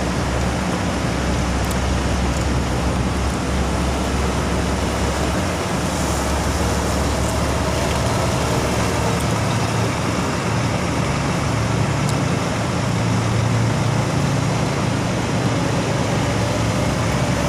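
Diesel bus engine running steadily as a bus moves off, a low drone over traffic noise, its pitch rising somewhat after about the middle.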